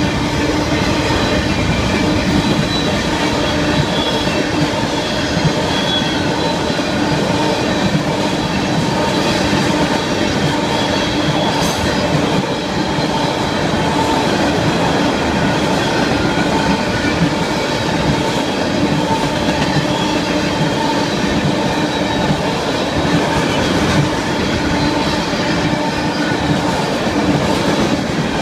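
Florida East Coast Railway freight train's box cars and tank cars rolling past steadily, their steel wheels running on the rails with a steady metallic squeal over the rumble.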